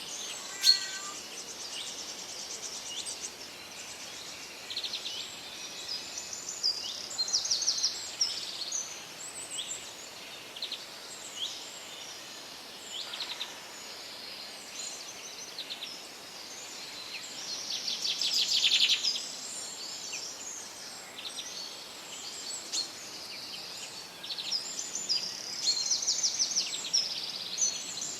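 Forest birds singing and calling over a faint steady hiss: many short chirps and trills, with a louder rapid trill about two-thirds of the way through.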